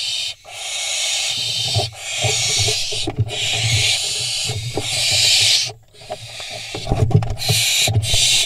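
Barn owl fledglings giving long, harsh hissing screeches, about six in a row with short breaks between, over knocking and scrabbling of talons on the wooden nest box as they scuffle.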